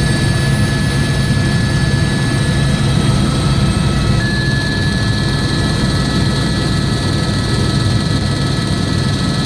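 Steady, loud drone of a police helicopter's engine and rotor, with a thin steady high tone above it that shifts slightly in pitch about four seconds in.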